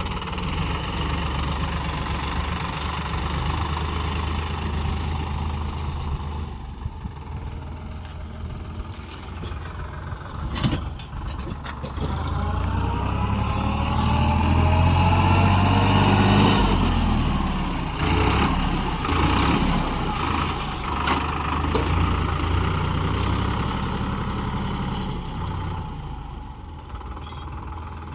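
Sonalika DI 734 tractor's diesel engine running, revving up about halfway through to a peak and dropping back, as the stuck tractor strains to pull free. A few short knocks sound over the engine.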